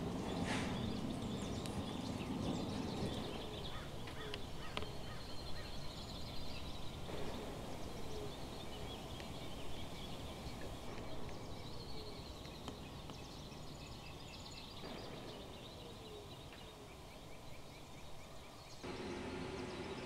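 Birds calling: short falling calls repeat several times over a steady background hiss, with faint high chirping. The background changes abruptly a few times.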